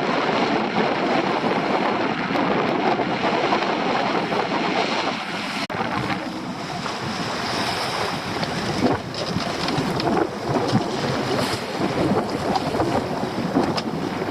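Wind buffeting the microphone and waves sloshing around a small boat at sea, a steady rough noise, with a brief drop about six seconds in.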